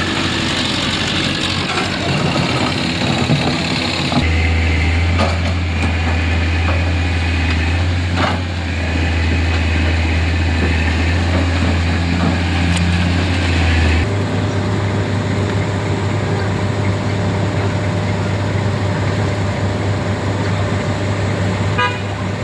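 Vehicle engines running in slow traffic on a road. A steady low engine hum shifts in pitch about four seconds in and again near the middle.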